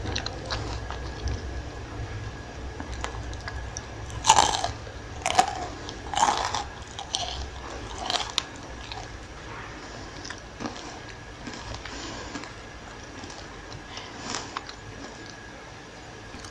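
Someone biting into and chewing a crispy fried potato-and-onion pakora: a run of loud crunches a few seconds in, then quieter chewing, with one more crunch near the end.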